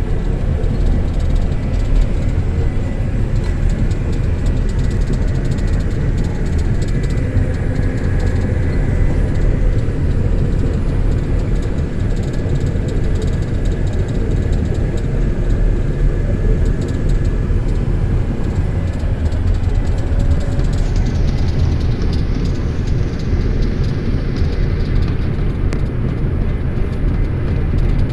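Caterpillar D6 bulldozer's diesel engine running steadily with a heavy low rumble. A faint high whine slides down in pitch near the end.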